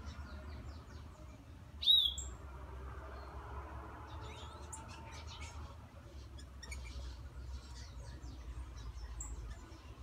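Wild songbirds chirping in a garden tree: one loud, sharp, downward-sweeping chirp about two seconds in, then scattered short high-pitched calls, over a low steady rumble.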